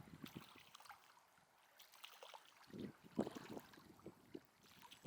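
Faint water lapping and trickling, with a few small irregular splashes about three seconds in.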